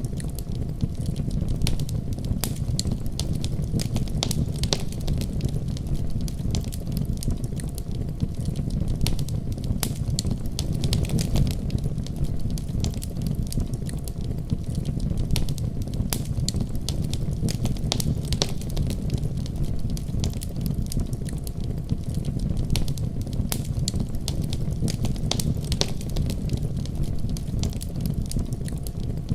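Fireplace fire crackling, with frequent sharp pops and snaps. Under it runs a steady deep rumble of a snowstorm's wind.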